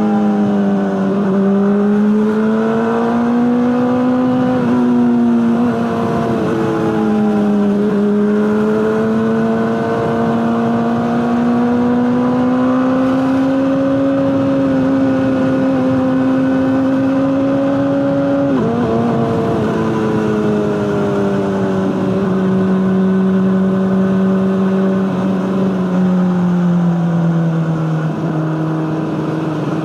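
Honda CBR600RR inline-four running through an Akrapovic exhaust while under way, its engine note rising and easing in long, smooth swells. About two-thirds in the pitch breaks sharply, as at a gear change, and toward the end the note falls steadily as the bike slows.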